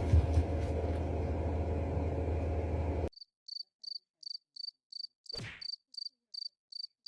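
A steady noisy rumble with a strong low hum cuts off abruptly about three seconds in. After it comes a cricket chirping, short high chirps about three times a second over otherwise dead silence, with one brief swish partway through.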